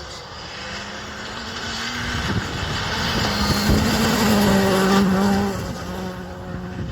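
Rally car engine passing at speed: it grows louder as the car approaches, is loudest about four to five seconds in, then fades as it moves away.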